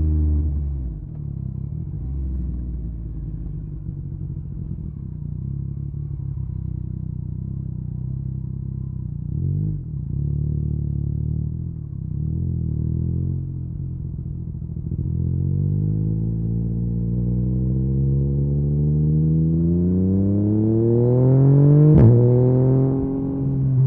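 Yamaha MT-09's inline three-cylinder engine through an Akrapovic carbon exhaust, running at low revs with a couple of brief dips, then accelerating from about halfway through with the pitch rising steadily. A sharp crack comes near the end, after which the pitch levels off.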